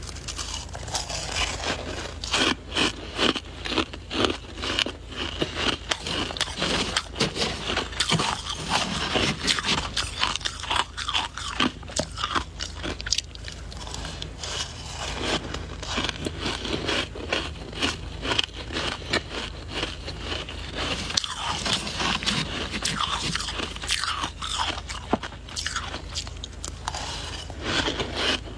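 Soft white ice being bitten and chewed, a dense, unbroken run of crunches several times a second.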